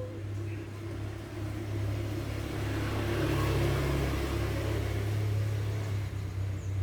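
A motor vehicle's engine running, a steady low hum with a rushing noise that grows louder about two seconds in.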